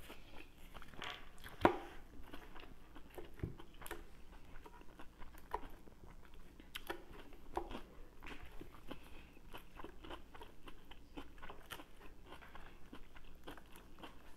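Close-miked chewing of a crunchy lettuce-and-chicken salad, wet mouth sounds with many scattered sharp clicks, the loudest about one and a half seconds in.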